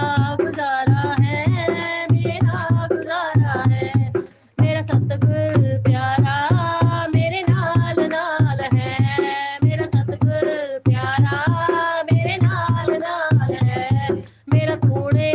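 Punjabi devotional song: a solo voice singing a bhajan over a steady tabla rhythm. The music breaks off briefly twice.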